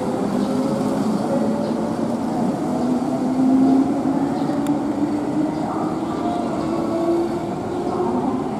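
Keihan Main Line electric train running along the platform: a steady rumble of wheels on rail, with faint tones that drift slowly up and down in pitch over it.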